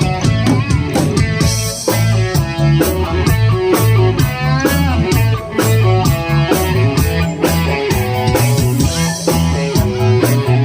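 A rock band playing instrumentally: electric guitar over bass, with a drum kit keeping a steady beat.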